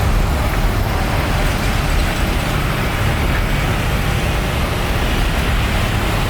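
Steady, loud roar of a jet airliner's engines, heavy in the low end and unchanging throughout.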